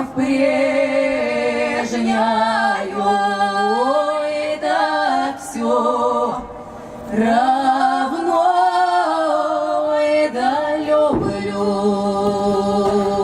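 A small vocal ensemble sings a Russian folk song a cappella in close harmony, holding chords and sliding between notes, and closes on a long held chord.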